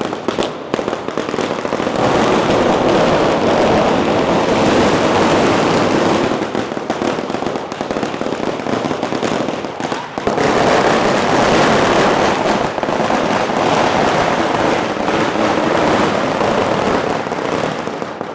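Long strings of firecrackers going off in a loud, dense, unbroken crackle of rapid pops. It swells loudest twice, about two seconds in and again about ten seconds in.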